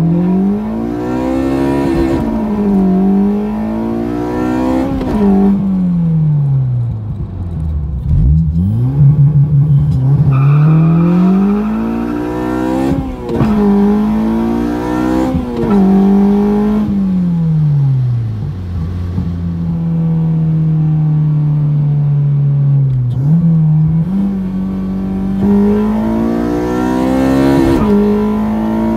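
Honda Civic Si's K20Z3 four-cylinder engine, fitted with TSX camshafts, a short ram intake and a 3-inch exhaust, heard from inside the cabin during full-throttle acceleration runs. It revs up through the gears with a quick drop in pitch at each upshift. The engine note falls away twice as the throttle is lifted, holds steady at cruise for a few seconds, then climbs again in another pull near the end.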